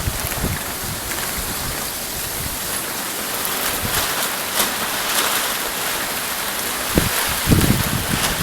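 Heavy, gusty wind-driven rain making a steady hiss. Wind buffets the microphone in low rumbles near the end.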